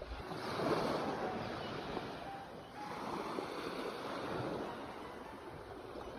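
Sea waves breaking and washing up the shore. One swell of surf peaks about a second in, and a second, softer wash comes about three seconds in and slowly fades.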